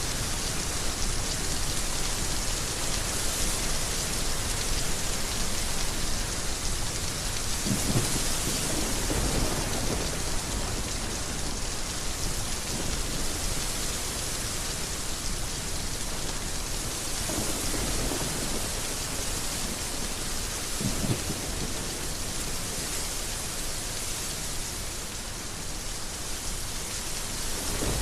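Heavy rain falling steadily in a dense hiss, with low rumbles of thunder rolling in several times: about a third of the way in, twice in the second half, and again at the very end.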